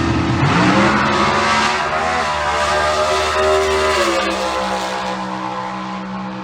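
Big-block V8 drag car launching off the line: engine revs climb steeply and are held high, then drop sharply about four seconds in as the driver lifts. This fits the 1968 Camaro 396 stocker spinning its tires off the line.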